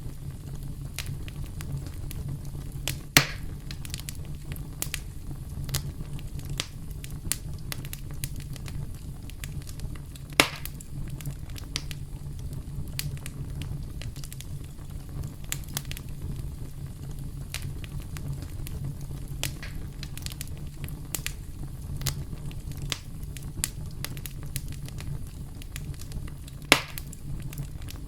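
Campfire crackling: a steady low rumble under many small crackles, with three louder pops, about three seconds in, ten seconds in and near the end.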